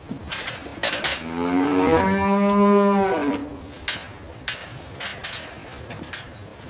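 A cow mooing once: a single call about two seconds long that rises in pitch at first and then holds steady, with a few light knocks around it.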